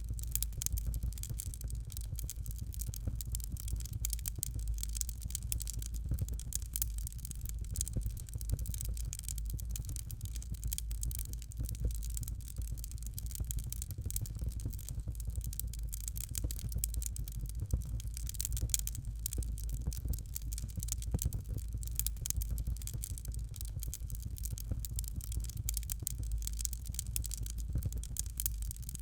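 Fire crackling in a fireplace: dense, irregular small pops and snaps over a steady low rumble.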